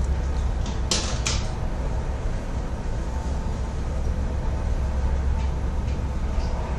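Helicopter running close by: a steady low rumble, with two sharp clicks about a second in.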